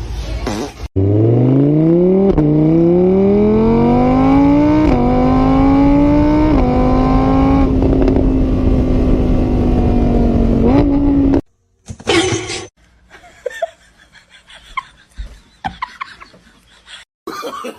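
Car engine accelerating hard through the gears: its pitch climbs, drops briefly at each of three gear changes, then holds steady before cutting off suddenly about eleven seconds in. Quieter, scattered sounds follow.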